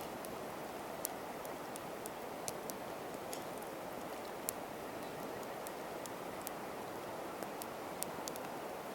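Wood campfire crackling: irregular sharp pops and ticks over a steady hiss.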